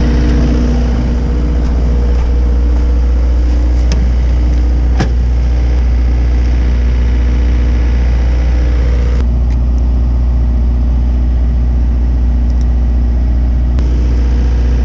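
An engine idling steadily, with a couple of sharp clicks about four and five seconds in and a slight change in its tone about halfway through.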